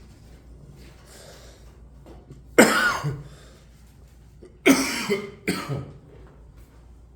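A person coughing three times: one cough, then two more close together about two seconds later.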